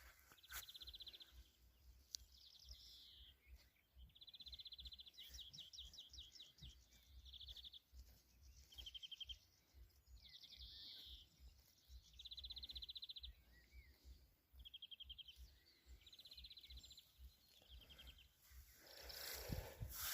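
A songbird singing short, rapid trilled phrases, one after another every second or two. Near the end, a louder rustling noise comes in.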